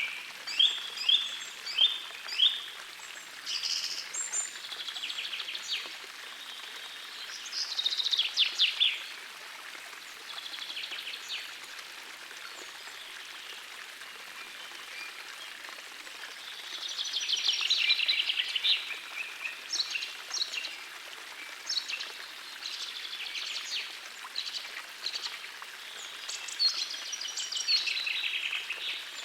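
Songbirds singing over a gentle forest stream: phrases of quick, repeated high notes and trills come and go, with the stream's steady running water underneath.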